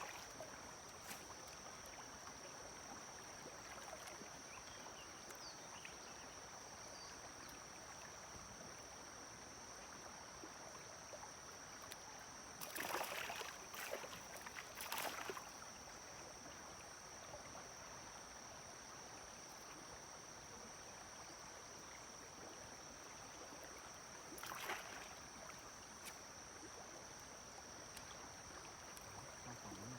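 Quiet streamside ambience: faint running water under a steady high-pitched hum, with a few short rustling or splashing sounds about 13 and 15 seconds in and again near 25 seconds.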